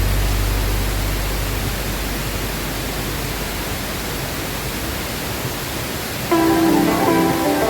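Steady, even rushing of a waterfall. Low background-music notes die away in the first second or two, and a melody comes in near the end.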